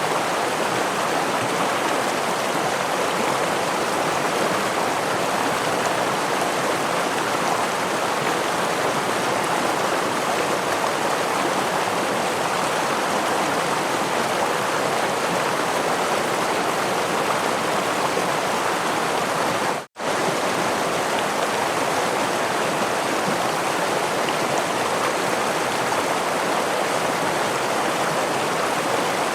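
Stream water rushing and splashing over a small waterfall, a steady even wash of sound that cuts out for a split second about twenty seconds in.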